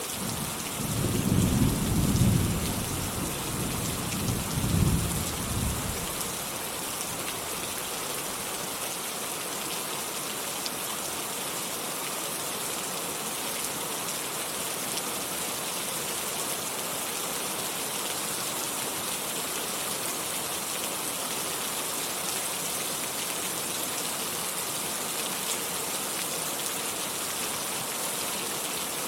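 Steady rain falling, with a low rumble of thunder near the start that swells twice and dies away about six seconds in.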